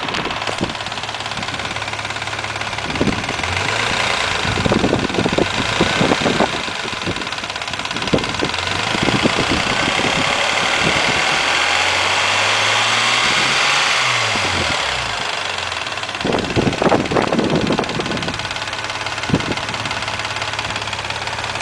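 Mazda MX-3 engine, warmed up to normal operating temperature, running with an irregular clattering knock over its steady note. The engine speed rises briefly and falls back about halfway through.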